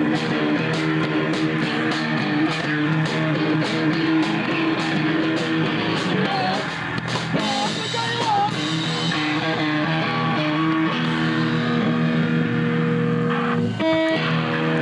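Punk rock band playing live: electric guitar chords held over a drum kit, with steady cymbal hits through the first half and a brief break near the end.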